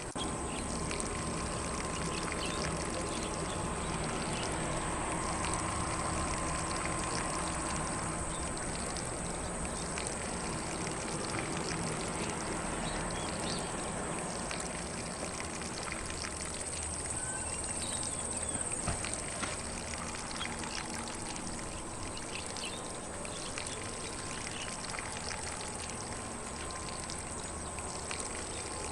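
Lawn sprinkler spraying water steadily across grass, with faint birdsong.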